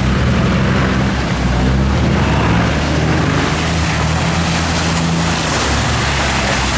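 Off-road 4x4 engine running steadily, a low drone that shifts slightly in pitch, with a broad rushing noise over it.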